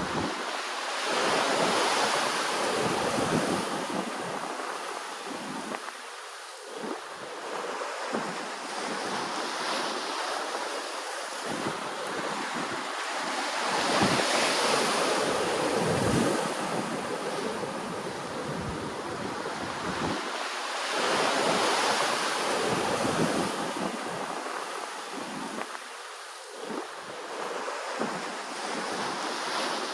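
Ocean waves washing onto the shore in a steady hiss that swells and fades. Bigger surges come about two seconds in, around the middle and about two-thirds of the way through.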